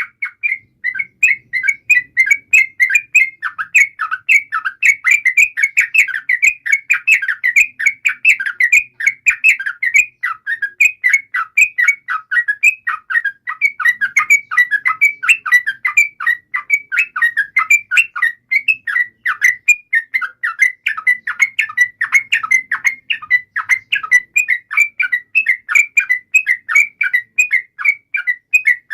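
Yellow-vented bulbuls (trucukan) singing in a rapid, unbroken run of short bubbly notes, the long 'ropel' song used as a lure to set other bulbuls singing.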